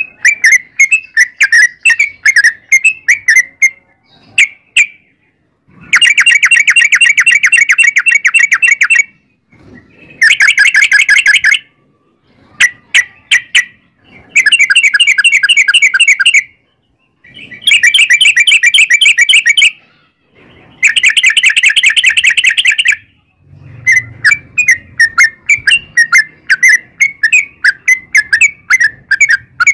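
Yellow-vented bulbul (trucuk) singing: quick runs of short chirps alternating with long, fast rolling trills of two to three seconds each. Five trills come in a row, then rapid chirping returns near the end.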